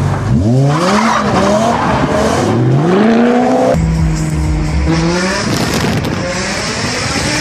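BMW M5 E60's V10 revving hard in a drift, its pitch climbing twice, with tyre squeal. About four seconds in, the sound cuts to a steadier engine note heard from inside the cabin, which rises briefly before going rougher.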